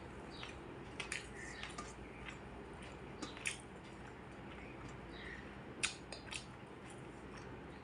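Close-up eating sounds: wet chewing and mouth smacks with scattered sharp clicks, over a steady low background hum.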